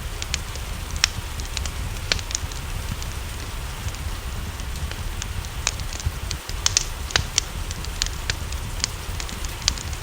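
Wood fire crackling, with irregular sharp pops several times a second, over a steady hiss of rain and a low rumble.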